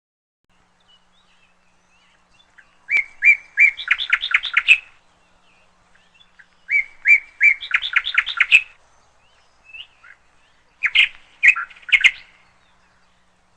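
Canary chirping in three short bursts, each a quick run of repeated bright notes, about four seconds apart.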